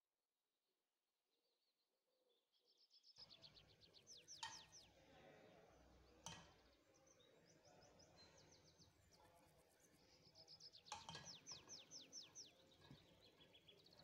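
Faint throughout: near silence for about three seconds, then a low background hiss comes in suddenly, with birds chirping in quick high trills and a few sharp clicks.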